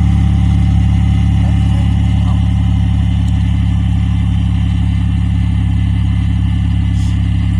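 1998 Buick LeSabre's 3.8-litre V6 idling steadily at the exhaust, an even low rumble that stays level in pitch and loudness.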